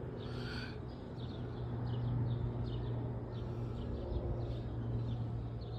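Small birds chirping over and over, short quick high notes, over a steady low hum.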